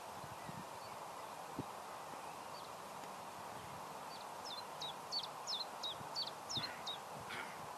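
A small bird singing a short phrase of about eight quick high chirps, each sliding down in pitch, about three a second, over a faint steady hiss.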